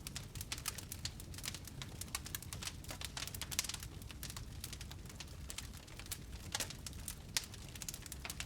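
Wood fire crackling in a fireplace: dense, irregular snaps and pops over a low steady rumble of burning.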